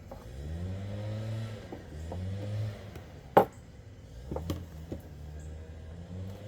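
An engine running and revving up twice in the first three seconds, its pitch rising each time. Sharp clicks of handling come over it, the loudest a little past the middle and a few more soon after.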